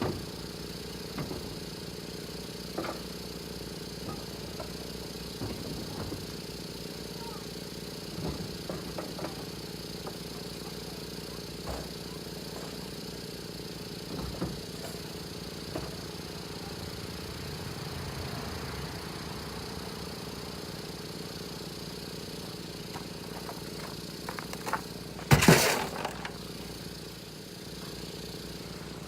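A steady engine-like hum runs throughout, under scattered light clicks and knocks of tools and metal parts being handled during turbocharger work. A loud metallic clatter comes near the end.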